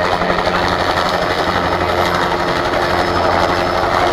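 Army helicopter running close by: a steady, loud engine drone with the fast beat of the rotor blades.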